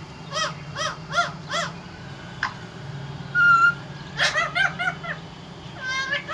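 A parrot calling in short, arching, pitched cries: four quick calls in a row, then a single held whistle about halfway through, then another rapid run of calls toward the end.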